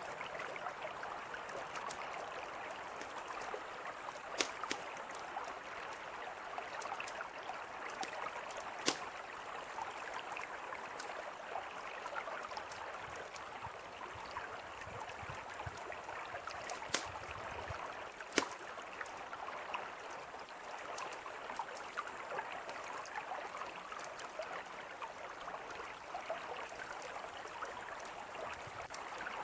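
Steady rushing of a flowing mountain river, with the sharp crackle and occasional louder pops of a wood campfire over it.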